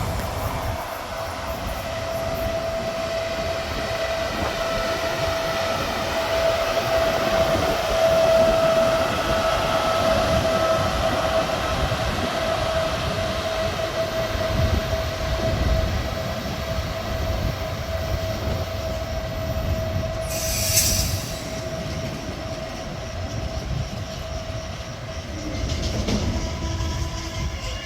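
A train running at a station, with a low rumble and a steady high-pitched whine over it. A short hiss comes about twenty seconds in.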